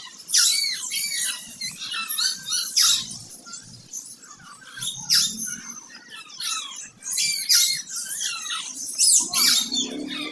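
A flock of small birds chirping and squawking, many short up-and-down calls overlapping without pause.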